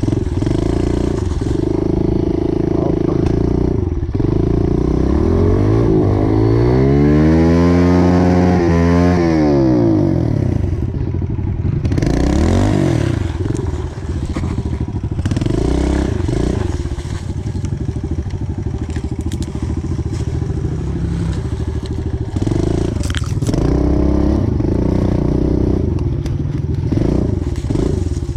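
Pit bike's small single-cylinder engine revving and easing off as it is ridden over a dirt trail, with one long rev that climbs and then falls about a quarter of the way in. Rattling and scraping from the bike runs underneath.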